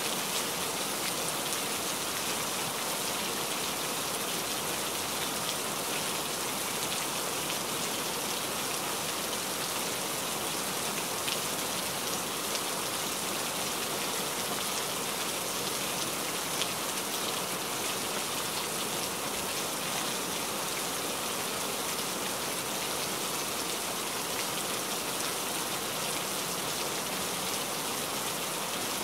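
Steady heavy rain: an even hiss of countless drops, with a few louder single drop hits standing out now and then.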